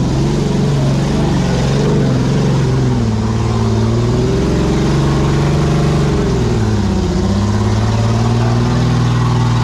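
4x4 Jeep's engine revving under load on a steep muddy climb, its pitch rising and falling as the driver works for traction, with a clear dip in revs about seven seconds in.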